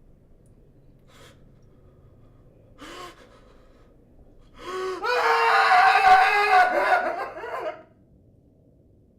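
A person's voice: a short gasp about three seconds in, then a loud, high-pitched, wavering gasping cry lasting about three seconds that breaks off near the end.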